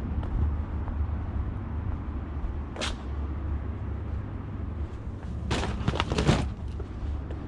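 Vehicle running with a steady low rumble. There is a short sharp noise about three seconds in, and a louder cluster of knocks or rattles about a second long near six seconds in.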